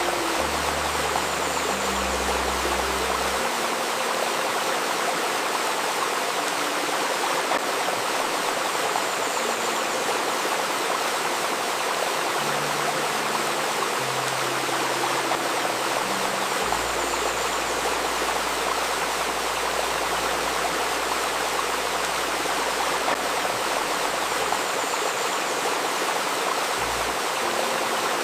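A river babbling and rushing steadily, with soft, low held tones underneath that shift every few seconds: a layered 528 Hz healing-tone track.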